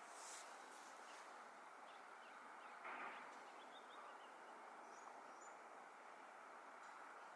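Faint outdoor ambience: a steady quiet hiss with a few brief, faint bird chirps scattered through it.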